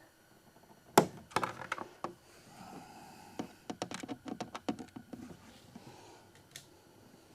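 A screwdriver tightening the mounting screws of a plastic jig bucket on a kayak: one sharp knock about a second in, then a run of small clicks and taps, and a single click near the end.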